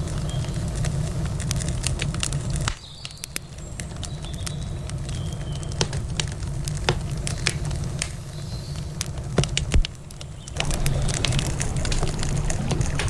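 Wood campfire crackling, with many sharp pops and snaps over a low rumble. The rumble falls away for several seconds in the middle, leaving the crackles alone, then returns.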